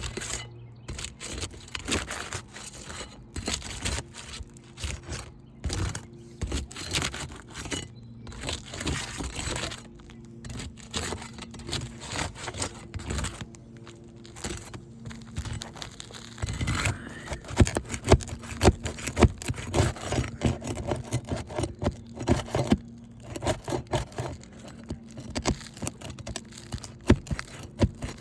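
Roof shingles being worked loose for removal: irregular scraping, cracking and tearing of the asphalt shingle tabs and their seal, with many sharp clicks, getting busier and louder from about halfway through.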